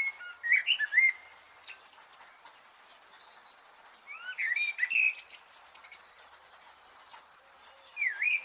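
Songbirds singing in short warbling phrases that slide up and down in pitch, one burst at the start, another about four seconds in and another near the end, with fainter thin high calls between over a steady faint hiss.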